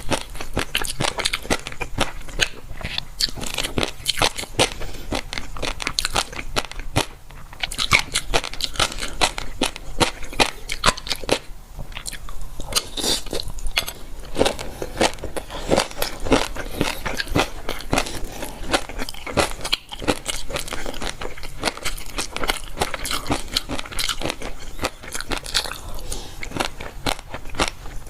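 A person chewing and biting crunchy food with rapid, crisp crunches that go on almost without a break. There are brief pauses about seven, twelve and twenty seconds in.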